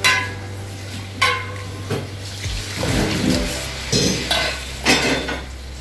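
Metal cooking pots and utensils clanking several times, sharp ringing knocks with a rougher scraping or sizzling stretch in the middle, as a pot of boiling water is handled over the pan of roasted rice for khichuri. A steady low hum runs underneath.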